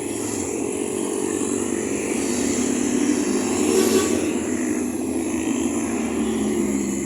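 Motorcycle engines running, a little louder about four seconds in.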